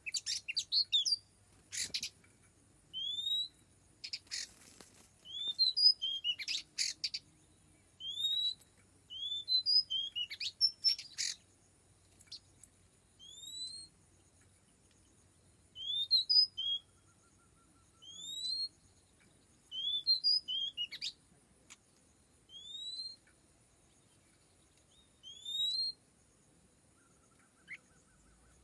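Oriental magpie-robin calling: short, clear rising whistles repeated every second or two, some coming in quick runs of three or four notes.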